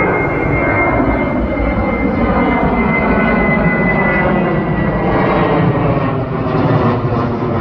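Jet airliner's engines passing close by, a loud steady rush with whining tones that slowly fall in pitch.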